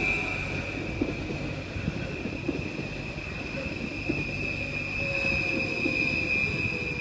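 Stadler FLIRT electric multiple unit running slowly past on the rails, with a steady high-pitched metallic squeal from the wheels and a motor whine that falls in pitch as the train slows.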